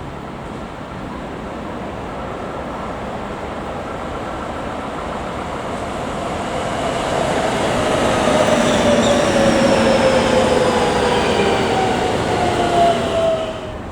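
Electric passenger train passing. It grows louder to a steady peak, with several tones that slowly fall in pitch, then stops abruptly near the end.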